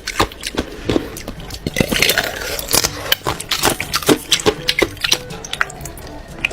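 Close-miked eating: irregular crunching and chewing, with many sharp clicks and smacks.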